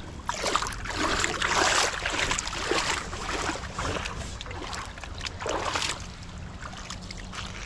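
Footsteps wading through a shallow creek: irregular splashing and swishing of water, loudest in the first three seconds, over a low wind rumble on the microphone.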